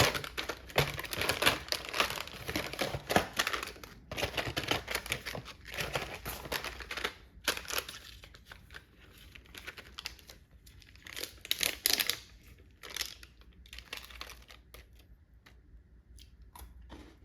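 Dense crinkling and crackling, as of something being crumpled or handled, thinning to scattered ticks about halfway through.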